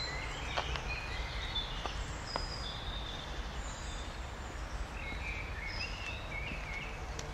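Small songbirds chirping and calling in short, high whistled phrases, in a cluster near the start and another about two-thirds through, over a steady low rumble.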